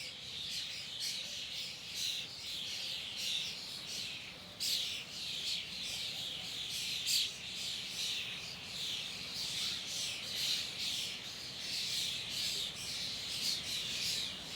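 A dense chorus of many birds chirping and calling at once, overlapping continuously with no pause.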